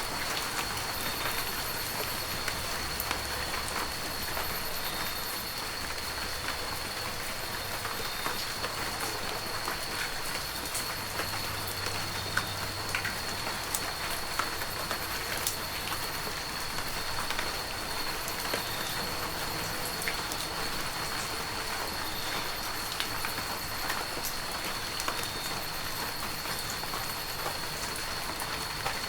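Heavy rain falling steadily: a constant hiss with many small, sharp drop impacts scattered through it. A thin, steady high-pitched tone runs underneath.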